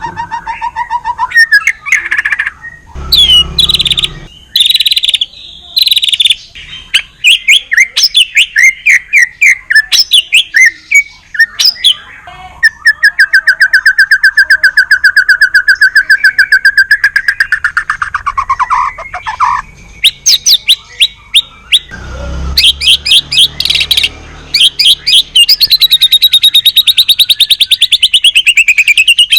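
White-rumped shama singing loudly in a fast, varied song of rapid trills and repeated whistled notes, with a long even trill in the middle and a trill that climbs and then dips near the end.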